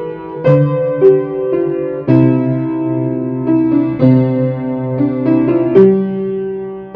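Solo piano playing a Christmas carol, with melody notes and held chords struck at a gentle, steady pace.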